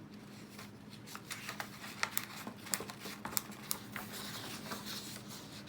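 Paper and tape being handled as a paper hat is pressed onto a paper plate: a scatter of light crinkles and clicks, then softer rustling.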